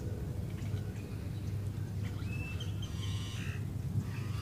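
Birds calling: a short whistled note about two seconds in, then a louder, rougher call about a second later, over a steady low rumble.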